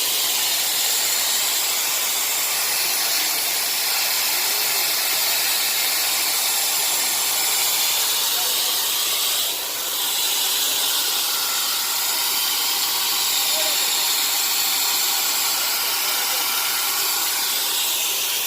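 A steady, bright hiss with a brief dip about ten seconds in.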